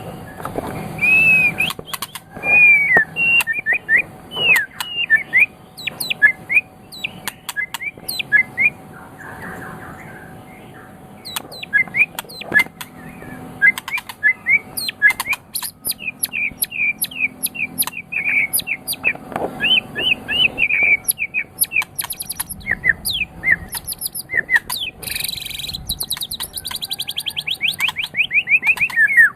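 White-rumped shama (murai batu) singing: a varied run of quick whistled notes, chirps and sharp clicks. The song goes quieter briefly about a third of the way in and ends with a fast trill.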